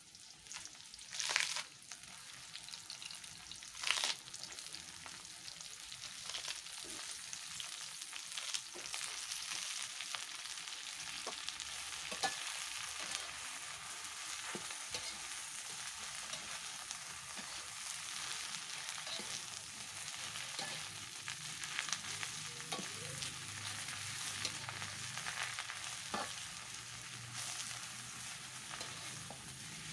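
Water spinach frying in hot oil and chilli paste in a wok, with two loud surges of sizzling in the first few seconds as the greens go in, then a steady hiss. A metal spatula stirs and scrapes against the wok, giving scattered clicks.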